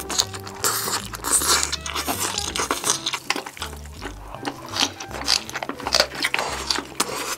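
Close, crunchy chewing and biting of green onion kimchi, many crisp crunches in quick succession, over background music with a steady bass line.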